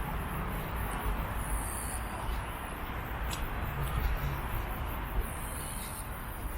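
High insect buzzing that swells twice for about half a second, over a steady low outdoor rumble.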